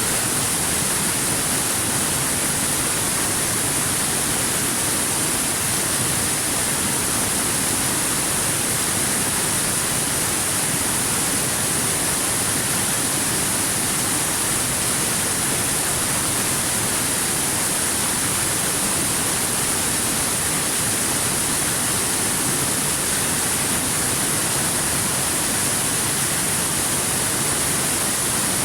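Waterfall: a steady, unbroken rush of falling water with a bright hiss on top.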